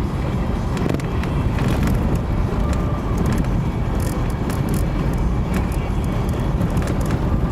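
Car driving on a snowy road: a steady low rumble of engine and road noise, with scattered small clicks and rattles.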